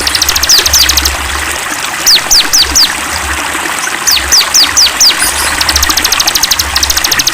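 Songbirds singing over a steadily trickling stream: fast rattling trills alternate with groups of three or four sharp down-slurred whistles.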